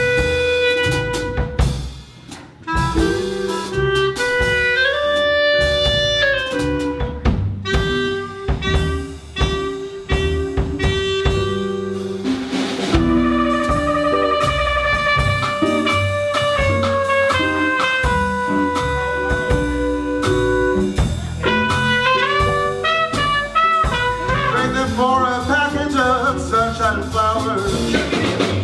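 Swing jazz band playing an instrumental passage: horn lines over drum kit and bass, with a brief break about two seconds in.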